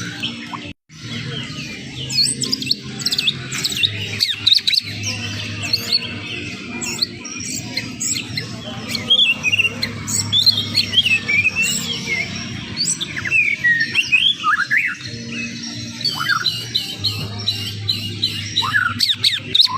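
Green leafbird (cucak ijo) singing a fast, varied song of whistled chirps and sliding notes in quick runs over a steady low hum, with a brief cut to silence about a second in.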